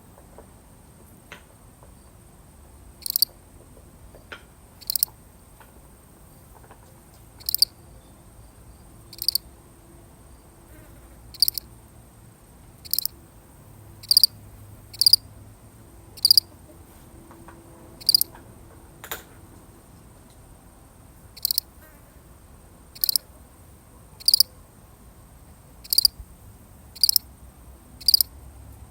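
A single field cricket chirping, short chirps repeating at slightly uneven intervals of one to two seconds, beginning about three seconds in.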